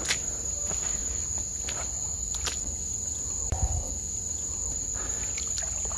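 Night insects, crickets, trilling steadily in one continuous high tone, with a few faint clicks and knocks underneath.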